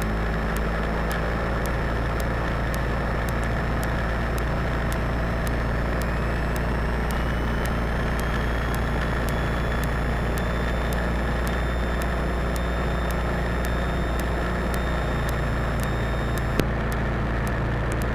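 Cessna 172 Skyhawk's engine running steadily at low power, heard from the cockpit. A faint high whine rises in pitch about a third of the way in, holds, then stops with a click near the end.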